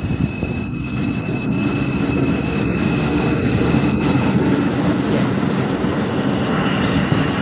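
R142 subway train running along the track through the station: a loud steady rumble of wheels and motors that builds slightly over the first few seconds, with a faint high whine that fades out about three seconds in.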